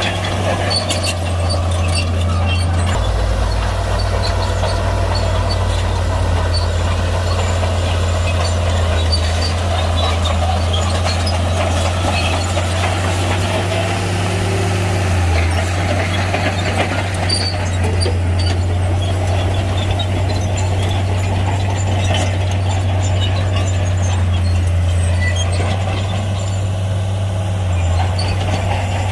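Shantui heavy bulldozer's diesel engine running steadily while working, with scattered sharp clicks and clanks over it.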